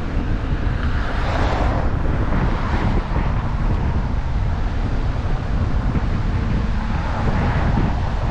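Wind buffeting the microphone of a camera on a moving bicycle, a heavy low rumble, with a rushing swell about a second in and another near the end.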